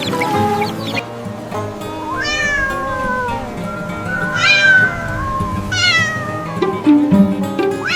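A cat meowing three times, long drawn-out cries, over background music.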